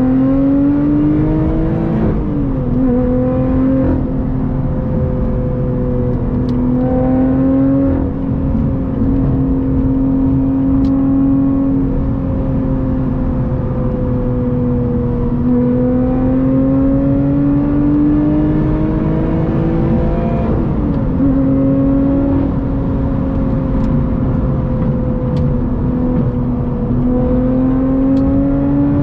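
Lotus Evora GT's supercharged 3.5-litre V6 pulling at highway speed through a titanium exhaust. The engine note drops sharply at an upshift about two seconds in and again about twenty seconds in, holds fairly steady between them, and climbs again near the end, with road and tyre noise underneath.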